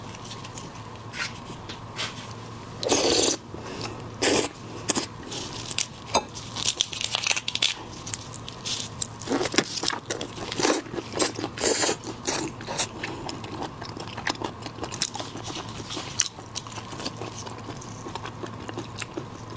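Close-miked eating of shellfish: shells cracking and crunching, with biting and chewing, in irregular bursts of sharp cracks that are loudest a few seconds in and again around ten to twelve seconds.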